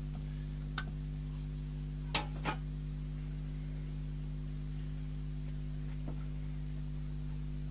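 Steady low electrical hum of several even tones, with four light clicks of handling: one near the start, two close together about two seconds in, and one about six seconds in.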